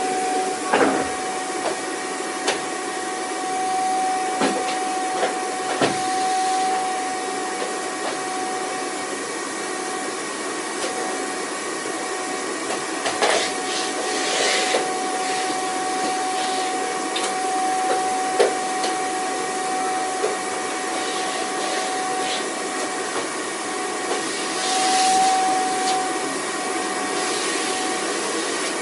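Vacuum cleaner running steadily, a rushing hiss with a constant motor whine, broken by occasional short clicks and knocks and a few brief surges of hiss.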